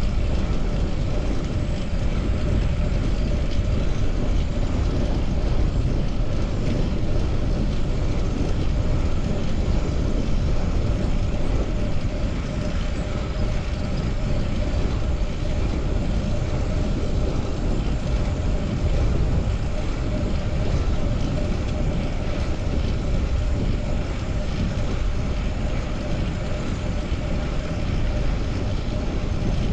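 Steady rush of wind and road noise from riding a fixed-gear bicycle, with no distinct events.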